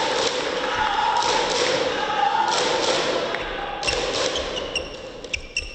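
Arena crowd cheering that dies away about four seconds in, followed by a table tennis ball ticking several times in quick succession, sharp light clicks with a short ring, as it is bounced on the table and bat.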